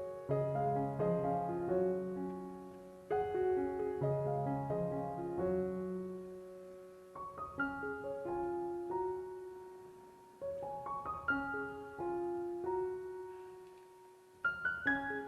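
Background music: a slow solo piano melody, notes struck and left to fade, in phrases that begin again every few seconds.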